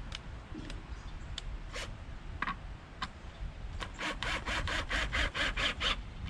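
A hand tool working wood: a quick run of about nine even scraping strokes, about five a second, starting about four seconds in, after a few scattered clicks and knocks.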